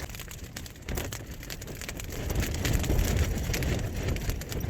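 Gale-force wind buffeting a tent, with rain striking the tent fabric in many sharp taps, heard from inside the tent. The wind's low rumble builds into a stronger gust about halfway through.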